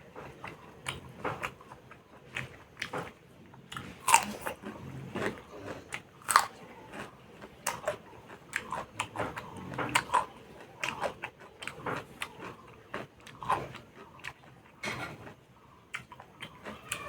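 Close-up chewing and biting of pork and mustard leaves: irregular wet crunches, smacks and clicks of the mouth, with a couple of louder bites about four and six seconds in.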